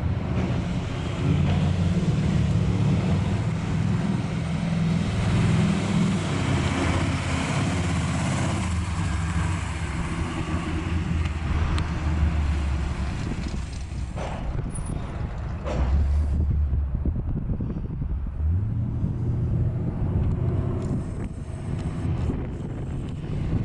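The 396 big-block V8 of a 1965 Chevy II Nova running and being driven, a deep steady engine note. The note eases off about halfway through, then climbs again as the revs rise near the end.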